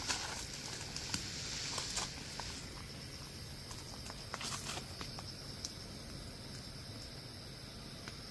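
Wood campfire crackling, with scattered sharp pops and a soft hiss that fades after the first couple of seconds.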